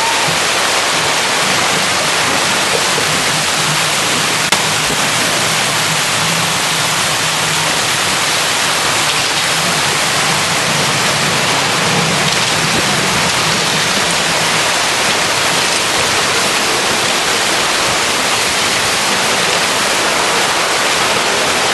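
Steady, dense rushing of storm wind and water, with a faint low hum underneath.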